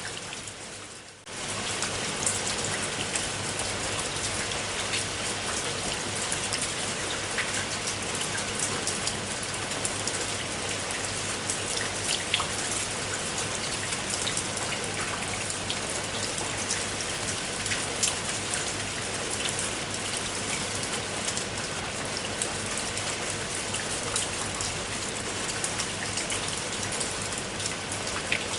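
Steady rain falling, with many separate drops heard ticking against a surface. About a second in, the sound dips away briefly and comes straight back.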